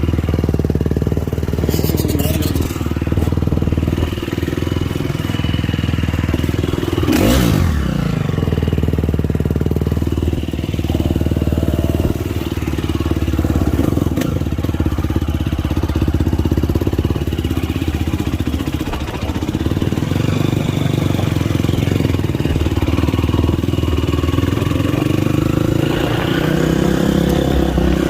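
Motocross dirt bike engine running on the track, its pitch rising and falling with the throttle. About seven seconds in there is a brief loud sweep.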